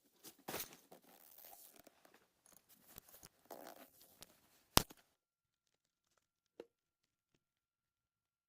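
Rustling, crinkling handling noises with a few knocks, ending in one sharp loud click about five seconds in, then near silence with a single faint tick.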